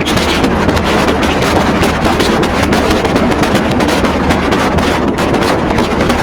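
Passenger train running along the track, heard from on board: a loud, steady rumble of wheels on rails with quick, irregular ticking clatter.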